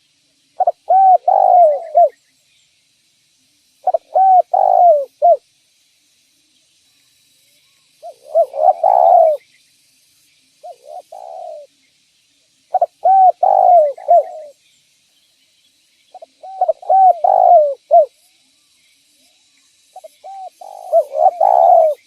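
Spotted dove (derkuku/tekukur) cooing: seven phrases of several mellow coos each, one about every three seconds.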